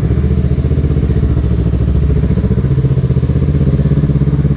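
Yamaha R3's parallel-twin engine running fairly steadily as the motorcycle rides along.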